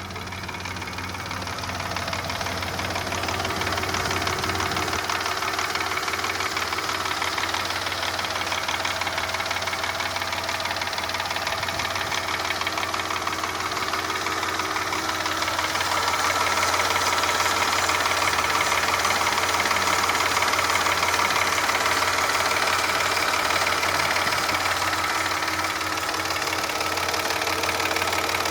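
Mercedes-Benz M112 2.6-litre V6 engine running with a fast, even knock from the piston and cylinder group, which the owner takes for worn pistons and cylinders. It grows louder over the first few seconds and again about halfway through.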